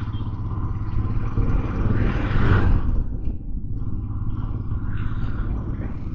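Motorcycle riding in city traffic: a steady low rumble of engine and road noise with wind on the microphone, swelling louder for about a second around two seconds in.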